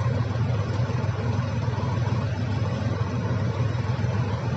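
Heavy diesel engine of earth-moving machinery running steadily, a low even drone with no change in speed.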